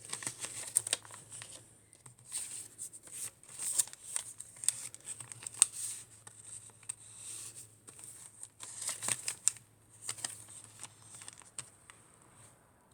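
Paper pages, tags and pockets of a handmade junk journal rustling, crinkling and clicking as they are turned and handled, in irregular short bursts.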